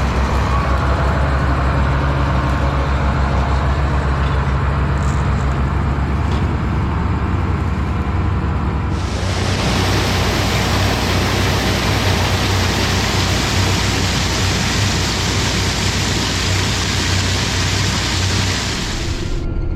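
Combine harvester running steadily while harvesting soybeans: a low, even engine drone. About halfway through, a loud rushing hiss joins it and stops suddenly just before the end.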